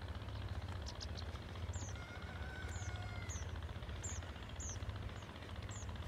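Small birds chirping: a string of short, high, downward-sliding chirps, about one every half-second to second from about two seconds in, with a fainter held whistle in the middle. Under them runs a steady low rumble on the microphone.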